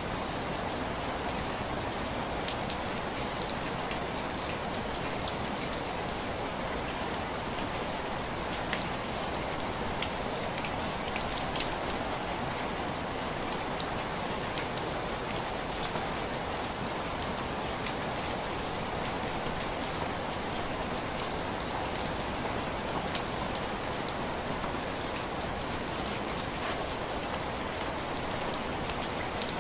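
Steady rain tapping on window glass: a constant hiss with many separate sharp drop ticks scattered through it.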